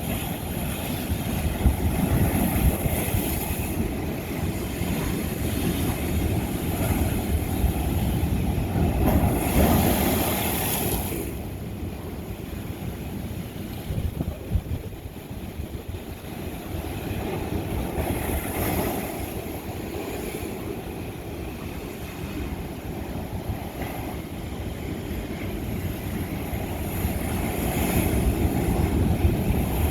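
Ocean waves surging and crashing on old lava rock: a continuous low, rumbling wash that swells in surges. It is loudest about ten seconds in, with further surges near twenty seconds and near the end.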